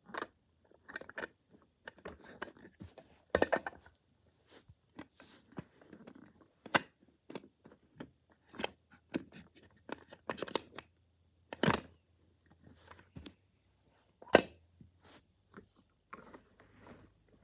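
Plastic toy garbage truck being handled, with irregular small clicks, scrapes and rattles of its moving parts and several sharper clicks spread through.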